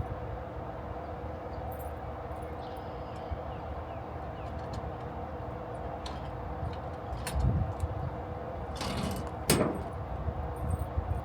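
Steady mechanical hum with scattered clicks and knocks; about nine seconds in a short hiss, followed by a sharp knock.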